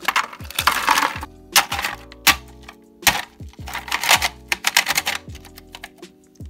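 Ice cubes clattering and rattling as they are poured into a plastic ice-maker bin, followed by further bursts of clinking and plastic rattling as the slotted plastic basket is set in and handled. Background music with steady low tones plays underneath.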